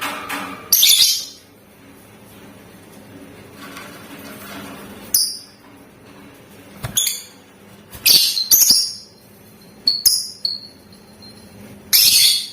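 Lovebirds giving short, loud, shrill chirps and squawks in separate bursts, several close together in the second half. A faint steady low hum sits underneath.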